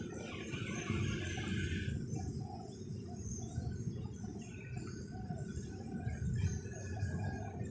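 Zebra dove (perkutut) cooing: a run of short, soft notes repeating a few times a second. A hiss fills the first two seconds, and a steady low rumble lies underneath throughout.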